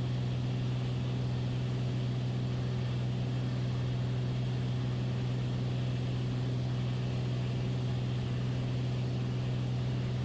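Beechcraft Bonanza's piston engine and propeller droning steadily in the cockpit during cruise descent, a constant low hum with no change in pitch.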